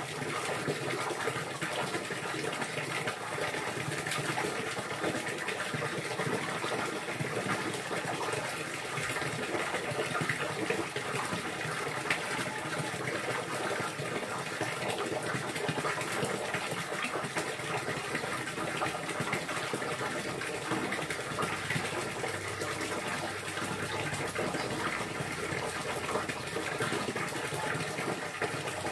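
Water running and pouring steadily, an even rushing splash with no break.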